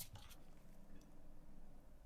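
Near silence: low room hum with a few faint, short clicks.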